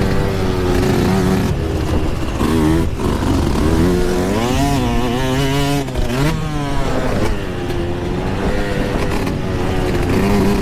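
Yamaha YZ125's single-cylinder two-stroke engine revving hard, its pitch climbing and dropping again and again as the rider throttles on and off around the track, with a sharp climb a few seconds in.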